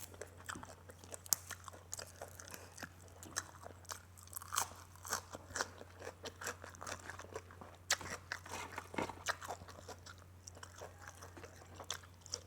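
A person chewing food close to the microphone, with many irregular crunches and crackles from each bite.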